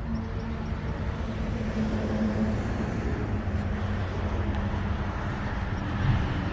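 Suzuki GSX-R1000 inline-four engine idling steadily through an M4 slip-on exhaust, a constant low hum.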